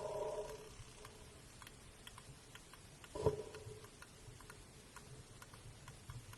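Faint sperm whale echolocation clicks, an irregular train of several ticks a second, heard underwater. A short tonal sound comes at the start and another about three seconds in.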